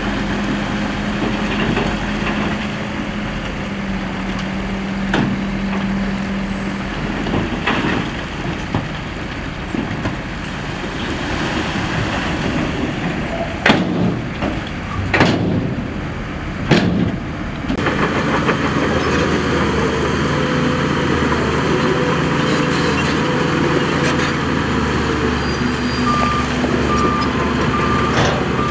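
Heavy diesel earthmoving machinery running, with a few sharp knocks midway. Near the end a reversing alarm starts beeping steadily.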